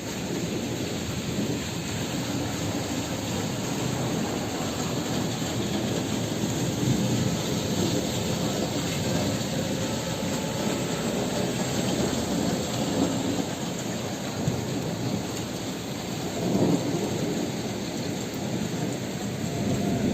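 Heavy rain pouring steadily, with thunder rumbling; a louder low rumble swells about three quarters of the way through.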